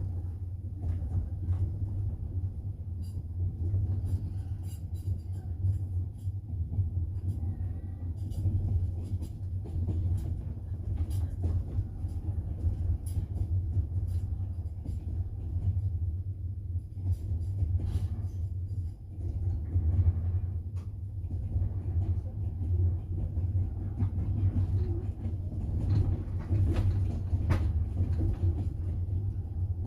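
Steady low rumble of a double-decker passenger train running along the track, heard from inside the carriage, with scattered light clicks and rattles of the wheels and car over it.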